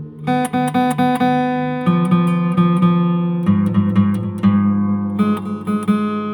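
Acoustic guitar music: plucked and strummed chords, with the notes changing every second or so.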